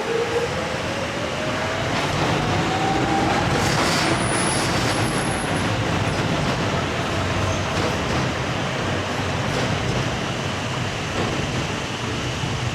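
Docklands Light Railway train running: an electric motor whine rises steadily in pitch over the first few seconds as the train picks up speed, over a steady rumble of wheels on track. Faint brief high squeals come around four to five seconds in.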